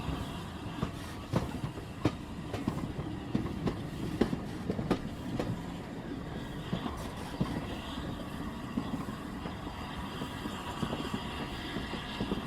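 Train running on rails: a steady rumble with frequent irregular clacks.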